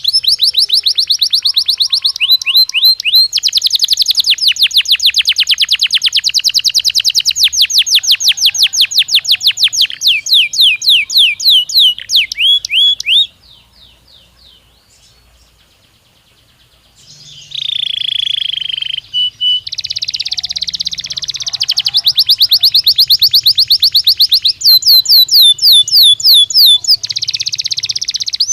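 Canary song: rapid rolling trills of repeated rising notes, about ten a second. The song breaks off about halfway through for a few seconds of faint chirps, then resumes with a short harsh buzzy phrase and more fast trills.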